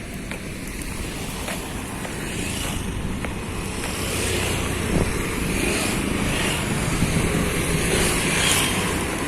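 Road traffic passing close by: motor vehicle engines and tyres, growing louder about four seconds in, with wind buffeting the microphone.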